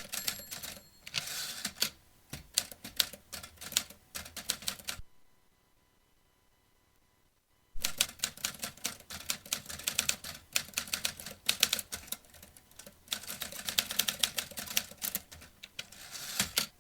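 Vintage typewriter typing: rapid, irregular key strikes. The typing stops for about three seconds in the middle, then resumes.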